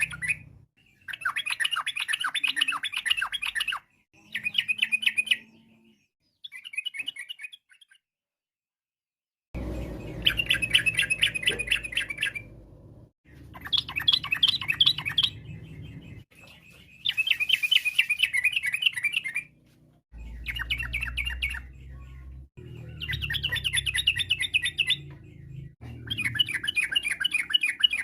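Yellow-vented bulbul (trucukan) singing in repeated bursts of rapid, chattering notes, each burst lasting one to three seconds with short pauses between. There is a longer silent gap about a third of the way through.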